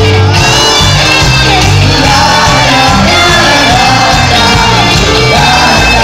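Live cuarteto band music played very loud, with a sung melody over it and a crowd shouting along.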